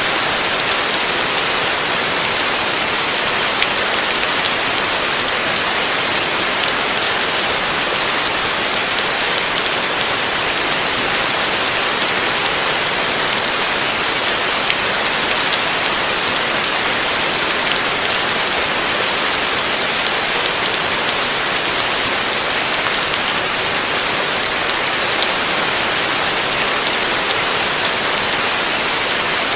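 Heavy rain falling steadily on a roof: an even, unbroken hiss of many drops, with no thunder.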